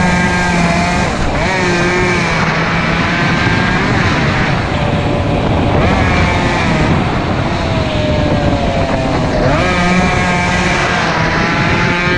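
Two-stroke motorcycle engines running hard, several at once, their pitch rising and falling with the throttle and dropping back every second or two.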